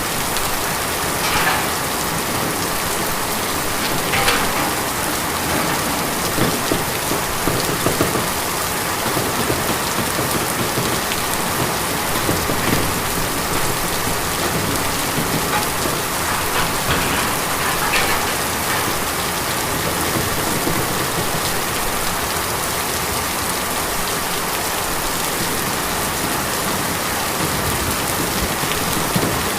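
Steady rain drumming on a tin roof, with now and then a single louder drop striking the metal.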